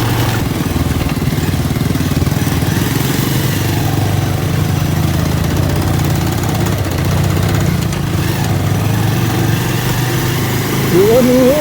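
Motorcycle engine running at low, steady revs, pulling slowly in first gear.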